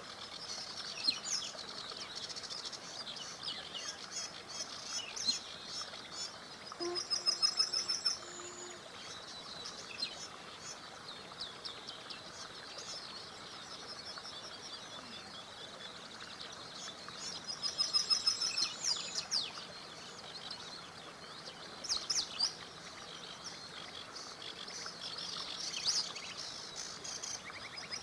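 Several songbirds singing and chirping over the steady faint rush of a small river; one bird repeats a loud, rapid trilled phrase about every ten seconds.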